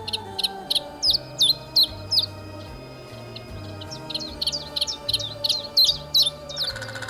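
A small bird chirping in short, sharp, high notes: about half a dozen spaced chirps in the first two seconds, then a quicker run of chirps from about four seconds in until near the end. A buzzing, rapidly pulsing sound starts just before the end.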